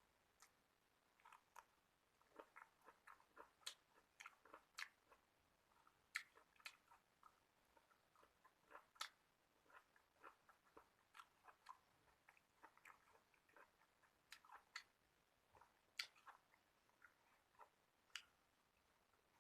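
A person chewing food close to the microphone: irregular small crisp clicks, several a second, with a few sharper ones standing out.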